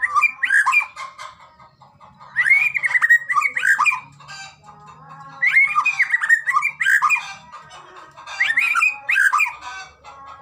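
White-rumped shama (murai batu) singing loud, varied phrases of whistles and fast warbles in four bursts a few seconds apart, over fainter steady tones.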